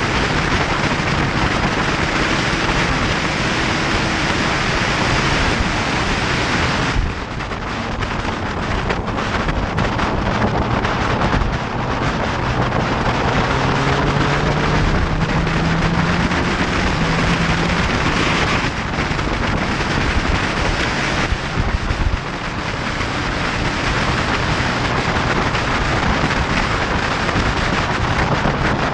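Heavy wind noise on the microphone of a motorcycle ridden at speed, with the engine note underneath. The note rises as the bike accelerates around the middle, and the level dips briefly about a quarter of the way in.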